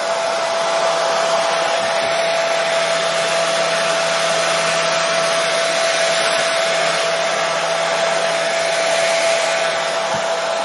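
Hair dryer running steadily: an even, unbroken rush of air with a constant whine from its motor.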